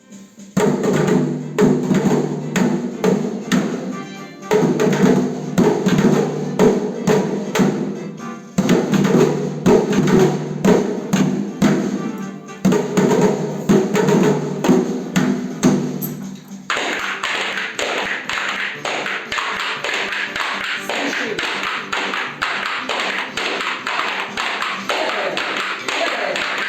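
A noise orchestra of simple percussion tapping a steady beat along with a melody in four short phrases. About 17 seconds in the melody drops out and only dense, even tapping with a hissy, shaker-like layer carries on.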